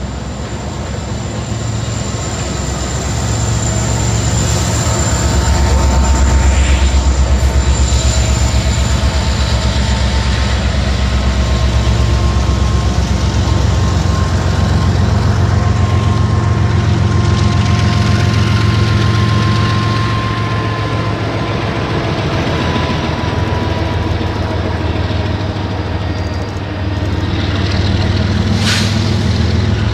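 CSX diesel freight locomotives passing close by with a steady low engine drone that grows to its loudest a few seconds in. Autorack cars then roll by on the rails, with a thin steady whine above the rumble.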